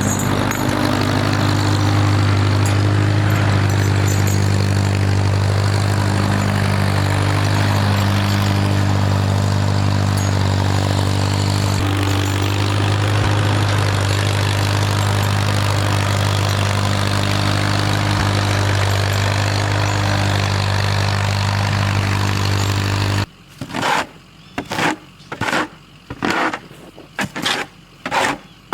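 Farmall tractor engine running steadily at a constant speed, cutting off abruptly near the end. A quieter, even rhythm of short sounds follows, a little under two a second.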